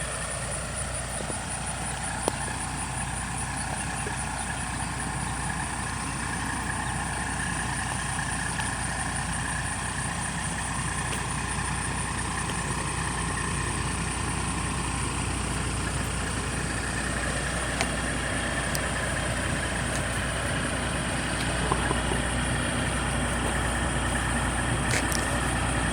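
An engine idling steadily, growing slightly louder over time, with a few faint clicks.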